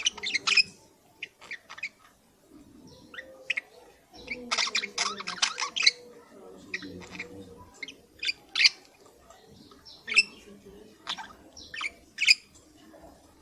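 Budgerigars chirping and chattering: scattered short, sharp chirps, with a dense run of warbling chatter about four seconds in.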